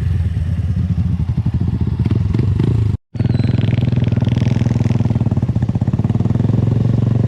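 Motorcycle engine running at a steady pace, its firing pulses continuous. The audio drops out completely for an instant about three seconds in.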